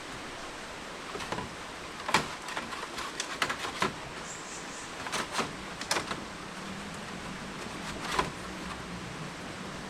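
Irregular sharp knocks and clatters, bunched in two clusters with a single one later, over a steady background hiss.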